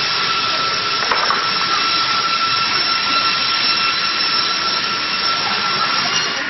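Computer-controlled round-log sawmill running, a steady loud hiss with a high whine over it.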